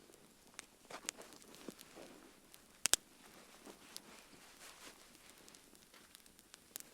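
Campfire crackling: scattered sharp pops and snaps, with a louder double pop about three seconds in.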